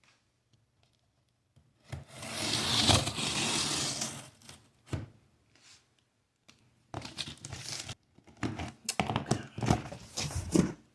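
Cardboard box packaging being torn open: one long tearing pull about two seconds in, then crinkling and rustling from about seven seconds in.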